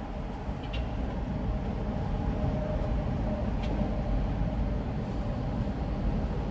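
Steady low road rumble of a car driving at highway speed, tyre and engine noise, rising slightly in level over the first couple of seconds, with two faint brief ticks.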